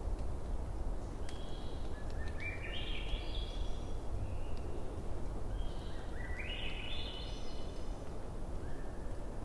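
A bonfire burns with a steady low rush and a few faint crackles. Over it a bird calls twice, each call a quick series of notes stepping upward in pitch, with a few short single notes in between.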